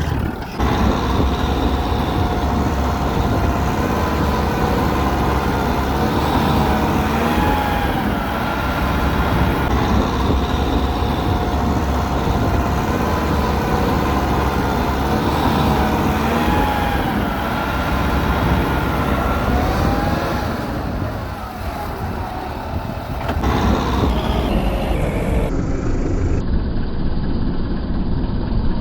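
Tractor engine working in deep rice-field mud, its pitch wavering up and down as the load changes, easing off briefly near the end.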